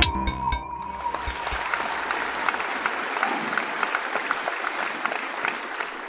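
Audience clapping, a steady patter of many hands that thins out near the end. Electronic intro music cuts off just as the clapping starts.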